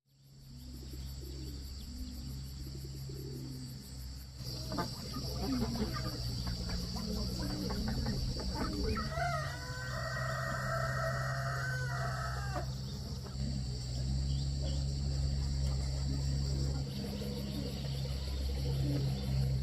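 A rooster crows once, a long call about halfway through. A steady high insect drone and a low hum run underneath.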